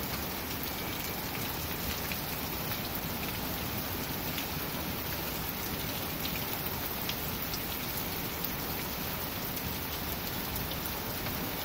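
Heavy rain pouring steadily during a severe thunderstorm: a continuous, even hiss with a few sharper drip ticks.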